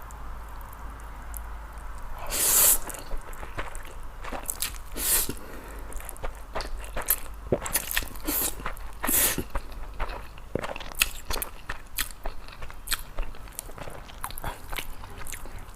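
A person eating noodles close to the microphone: wet chewing and mouth clicks, with a few louder, longer rushes of sound, the loudest about two and a half seconds in.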